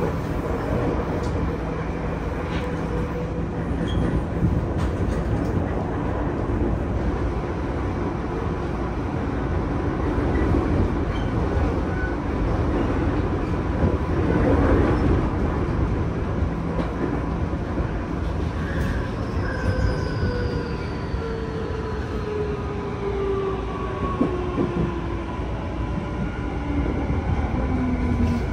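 Inside a Tokyu 5050 series train car running at speed: steady rumble of wheels on track, with a louder rush about halfway through as another train passes close alongside. From about two-thirds of the way in, the Hitachi IGBT-VVVF inverter whine falls steadily in pitch as the train brakes for a station.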